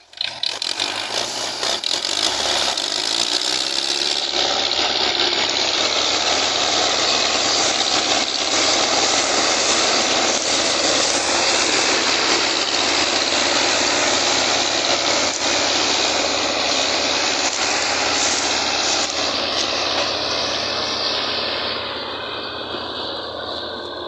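Diesel engines of two Belarus 510 tractors running under load as they pull a trolley: a loud, steady mechanical noise that starts abruptly and eases off over the last couple of seconds.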